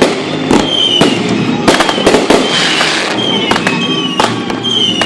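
Fireworks display going off in a rapid series of sharp bangs, about a dozen across a few seconds, with short high whistling tones between them.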